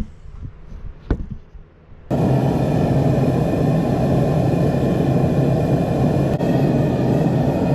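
A couple of sharp clicks, then about two seconds in a forge fires up and runs with a loud, steady rushing noise as the knives are heated for thermal cycling before the quench.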